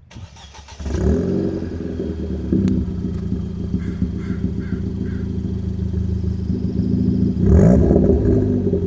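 2016 Ford Fiesta ST's turbocharged 1.6-litre four-cylinder, breathing through a 3-inch CP-E Nexus exhaust with a catless downpipe, cranking briefly and catching about a second in, then settling into a loud idle. Near the end it is revved once, the pitch rising and falling.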